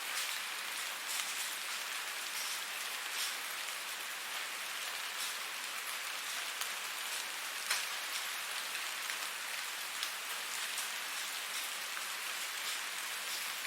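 Steady rain falling on a surface, an even hiss with many individual drops ticking through it and one sharper drop about halfway.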